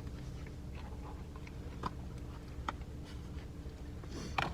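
Steady low hum inside a car cabin, with a few faint clicks and a brief rustle near the end.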